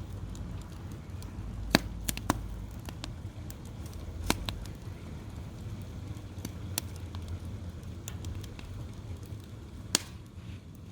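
Firewood fire crackling, with sharp, irregular pops scattered through, the loudest about two seconds in and near the end, over a low steady rumble.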